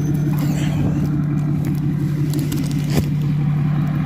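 Ford F-350 pickup engine running steadily at low speed, with a single sharp knock about three seconds in.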